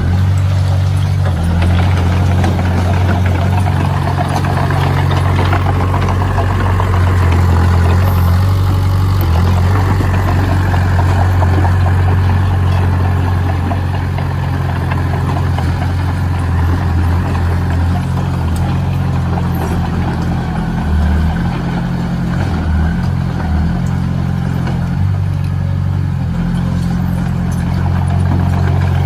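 Heavy construction machine's engine running steadily with a deep, even note.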